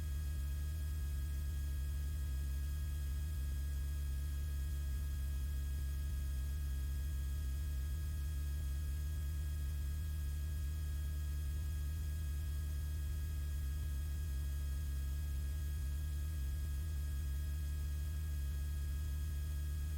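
Steady low drone of a Beechcraft Bonanza's engine and propeller in cruise power during a steep turn, heard in the cockpit, muffled and unchanging, as picked up through the headset intercom.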